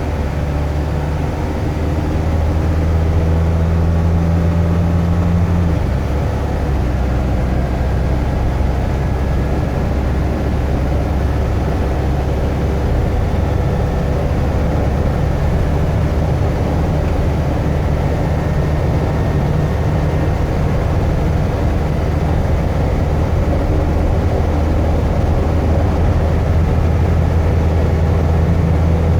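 A 2004 GMC box truck's engine and drivetrain heard from inside the cab while driving: a steady low engine drone with road noise, changing pitch about six seconds in and again near the middle as the transmission shifts gears.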